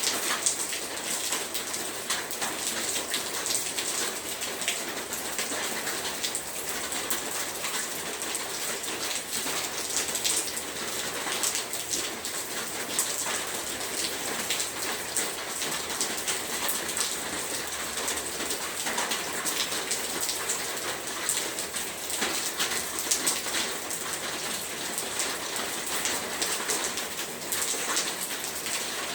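Heavy rain falling steadily, a dense hiss of rain with many individual drops pattering on a surface.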